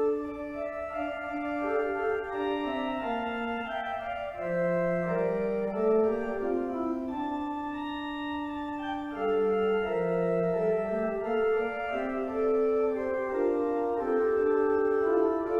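Organ playing a slow prelude: sustained chords with a moving bass line, notes held and changing in steps.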